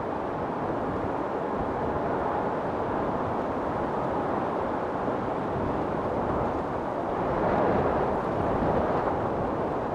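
Storm wind blowing steadily, swelling in a stronger gust about three-quarters of the way through.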